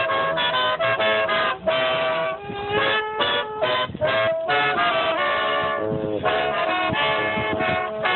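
Brass band playing a tune outdoors: trumpets and trombones in harmony, notes changing in short phrases with brief breaks between them.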